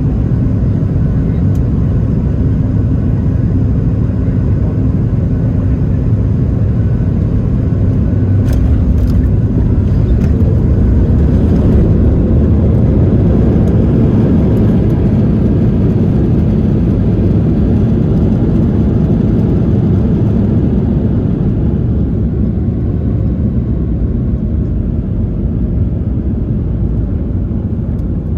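Boeing 737 MAX 8's CFM LEAP-1B engines and airframe rumbling loudly during landing. The sound swells about ten seconds in as reverse thrust builds, then eases off over the last several seconds as the aircraft slows.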